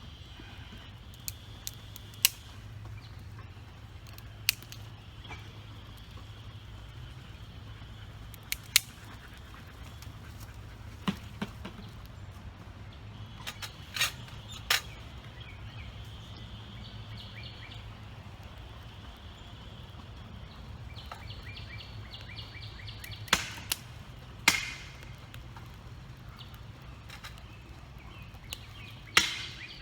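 Wood fire in a rocket stove giving sharp, irregular pops and cracks every few seconds, over a steady low rumble. A high chirping runs in the background.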